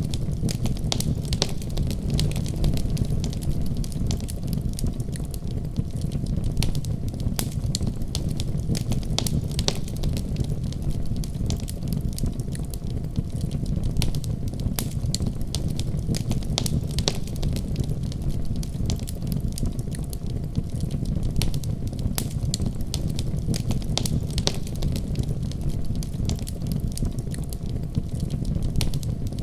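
Wood fire burning, with a steady low rumble of flame and frequent sharp crackles and pops throughout.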